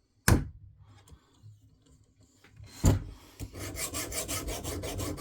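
Two sharp knocks, then a KME guided-rod sharpening stone rubbing back and forth along a fillet knife's edge in quick, even rasping strokes. The strokes are test passes over the Sharpie-marked bevel to check the sharpening angle.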